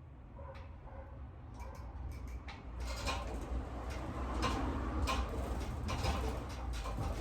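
Pedal-driven washing machine tank turning, knocking rhythmically about twice a second over a low rumble, the knocks growing louder from about three seconds in.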